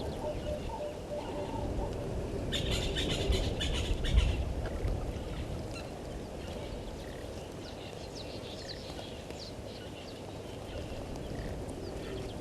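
Birds calling: a burst of rapid, harsh calls starting about two and a half seconds in and lasting a couple of seconds, followed by fainter scattered chirps over a low outdoor rumble.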